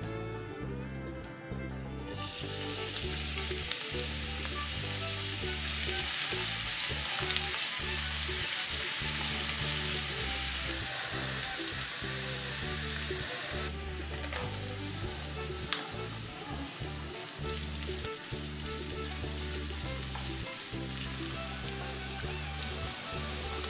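Chopped garlic, chili, ginger and green onion frying in hot oil in a wok, then sliced ham sausage; the sizzle starts about two seconds in, is loudest in the middle and eases off a little later, with stirring and a couple of sharp clicks. Light background music underneath.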